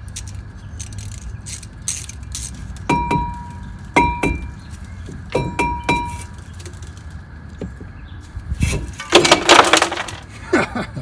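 Metal brake parts struck and set down, clinking four times with a short bright ring each time. Near the end comes a loud rushing hiss of about a second.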